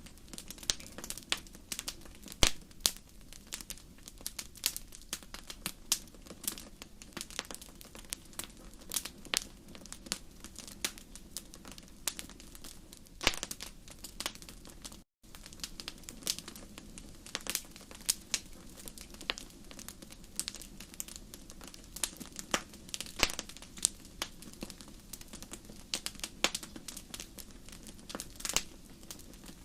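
Wood fire burning in a fireplace, crackling and popping irregularly over a low steady rush of flame. The sound cuts out for an instant about halfway through.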